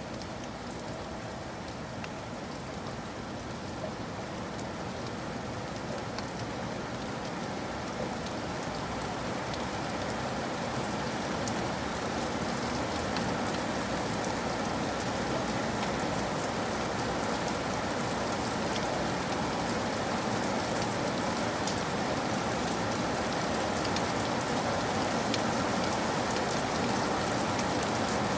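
Steady heavy rain falling on surfaces, a dense even hiss with scattered individual drops, slowly growing louder.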